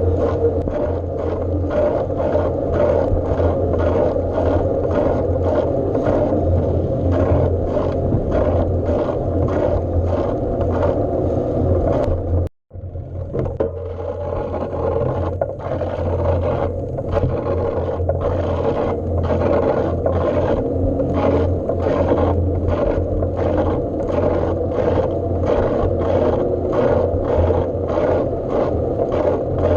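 Steady riding rumble from a bike in motion, with a regular scraping tick about twice a second. The sound cuts out for a moment about twelve seconds in.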